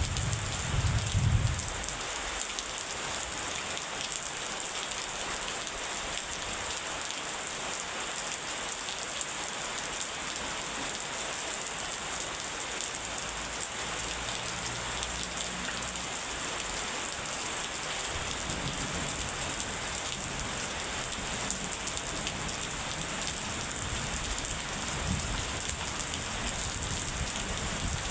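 Steady rain falling, an even hiss throughout. A low rumble of thunder sounds in the first second or two, and fainter low rumbling comes back in the latter half.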